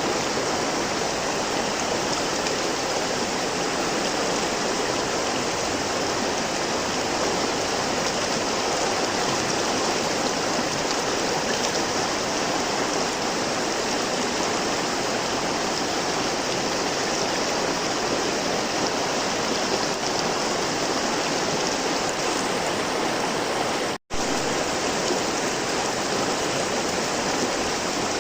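Flowing river water: a steady, even rush of running water. About 24 seconds in it cuts out for a split second and resumes.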